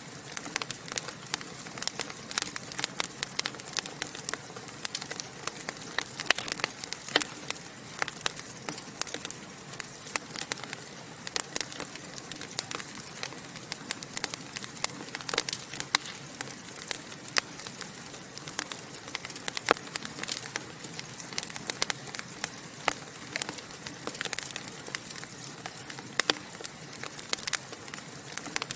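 Wood fire in a fireplace crackling and popping: many sharp, irregular pops and snaps over a soft steady hiss.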